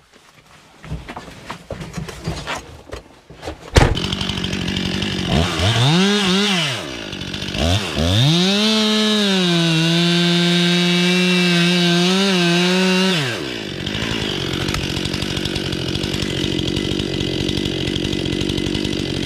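STIHL MS 261 two-stroke chainsaw: a few clicks and knocks, then the saw starts about four seconds in, is blipped up and down once, held at full revs for about five seconds, and drops back to idle.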